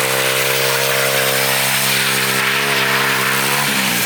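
110cc single-cylinder pit bike engine on a drift trike running at steady high revs with a buzzing, chainsaw-like note, over a steady hiss. Near the end the revs drop briefly, then climb again.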